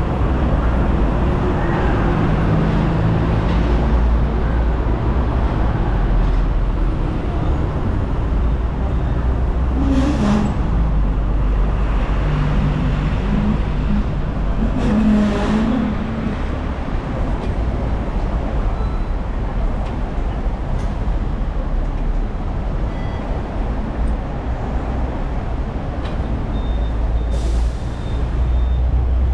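Hong Kong double-decker tram running through city traffic: a steady low rumble of the car and street traffic, broken by short hisses about ten and fifteen seconds in.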